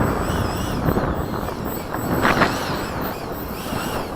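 Electric ducted fan of a 90mm Freewing F-104 RC jet whining, its pitch rising and falling as the throttle is worked, over a steady rushing noise.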